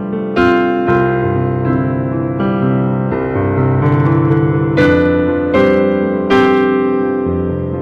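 Keyboard piano playing slow, sustained chords, a new chord or note struck roughly every second and left to ring.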